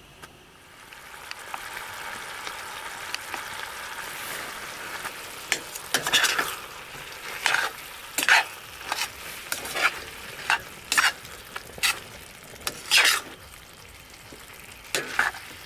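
Chicken frying in a metal pan on a portable butane camping stove: a sizzle that swells about a second in, then a spatula scraping and stirring through the pieces in repeated strokes as the chicken is cooked down.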